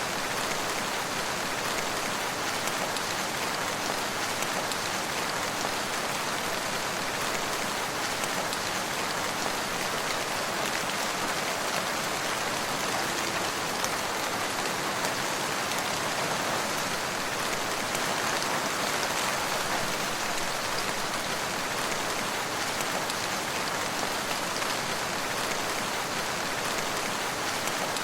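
Steady, even rain falling on surfaces, a constant hiss of many drops with no change in strength.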